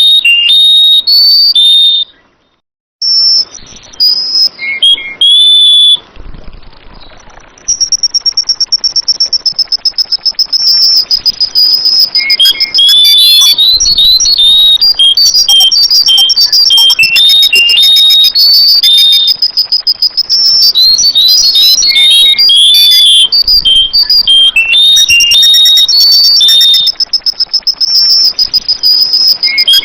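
Sooty-headed bulbul (kutilang) singing loud, short whistled chirping phrases that break off briefly about two seconds in. From about eight seconds on, a steady high-pitched trill runs underneath the song.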